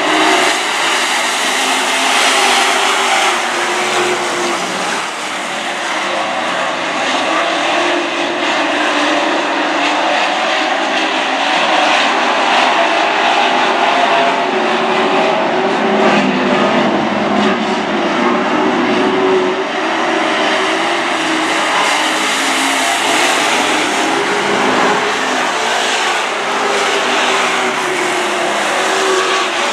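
A pack of Super Truck race trucks running hard on a dirt oval just after the green flag, several engines overlapping and shifting in pitch. The sound swells about two seconds in and again past the twenty-second mark as the pack comes by.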